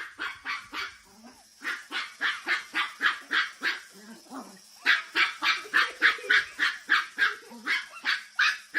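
A dog barking over and over in quick, even succession, about three barks a second, with a short break about four seconds in before the barking resumes.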